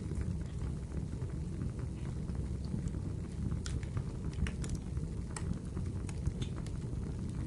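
Firewood burning in a fireplace: a steady low rumble of flames with scattered sharp crackles and pops, coming more often in the second half.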